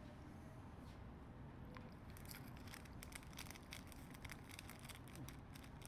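Faint crunching of an edible cricket being chewed, a quick run of small crisp clicks that starts about two seconds in.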